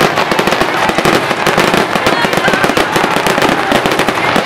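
Aerial fireworks shells bursting in a rapid, continuous barrage of loud bangs and crackles.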